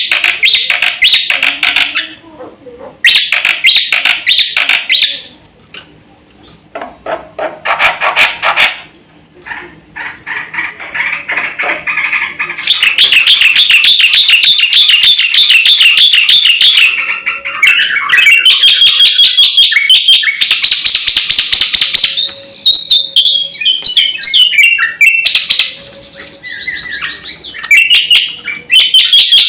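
Black-winged starling (jalak putih) singing a loud, varied, rapid chattering song, delivered in bursts with short pauses at first, then as an unbroken stream for the rest.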